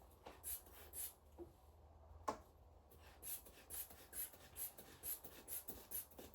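Rubber inflation bulb of a manual blood pressure cuff being squeezed over and over, a faint rhythmic puff of air about two or three times a second, inflating the cuff to 150 mmHg. One sharper click a little past two seconds in.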